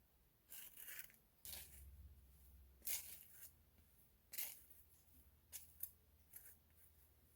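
Faint, brief rustling and scraping strokes, several spaced irregularly, over a faint low hum that comes in about a second and a half in.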